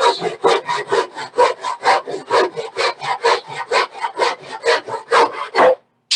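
Handsaw cutting a pine board by hand, with quick, even back-and-forth strokes at about four to five a second. The sawing stops shortly before the end, followed by two light knocks.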